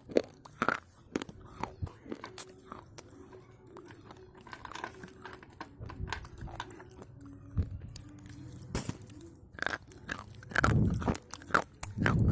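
Slate pencils being bitten and chewed: a run of sharp crunches, thinning out in the middle and coming thick and loud again near the end.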